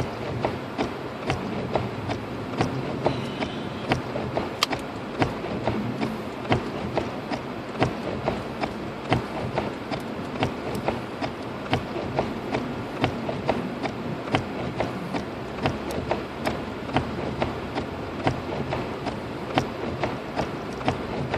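Hazard-light flasher ticking in an even, steady rhythm inside the car's cabin, over a constant hum of engine and road noise.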